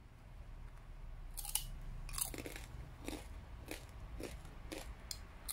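Crunching and chewing of crispy deep-fried duck close to the microphone: about eight sharp, irregular crunches, starting about a second and a half in.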